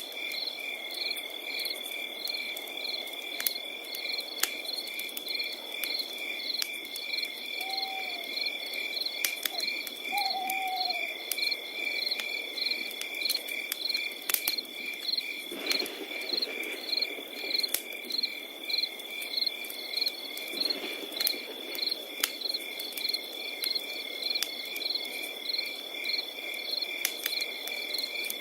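Crickets chirping without pause: one continuous high trill under a fast, even pulsing of chirps from other crickets. A wood fire crackles with scattered sharp pops over a soft low hiss, and twice near the middle comes a brief low falling call.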